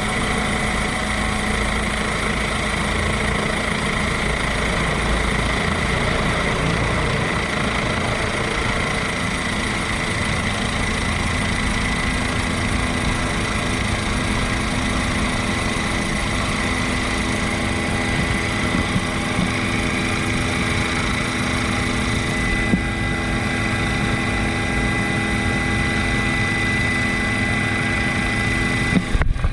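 Helicopter in flight: a steady engine and rotor drone with a high, steady whine over it, breaking off briefly near the end.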